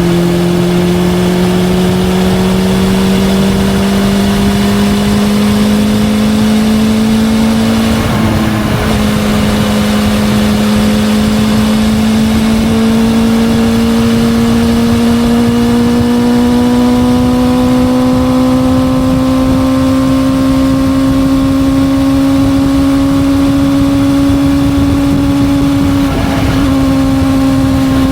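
Honda CB400SF Hyper VTEC inline-four through a Yoshimura titanium full exhaust system, running steadily under way, its note climbing slowly and evenly in pitch as the bike gathers speed, with a slight drop near the end.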